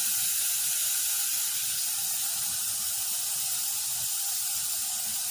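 Air hissing steadily out through the valve stem of a riding lawnmower tire's inner tube as the tire is let down.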